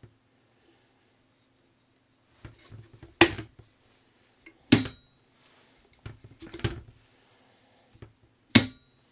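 Four sharp knocks or clacks of hard objects being handled, one to two seconds apart, two of them leaving a brief high ring, with softer handling rustle between them over a faint steady low hum.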